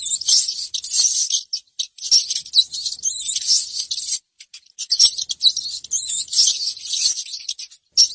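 Rats squeaking: rapid runs of high-pitched squeaks and chatter, broken by short pauses.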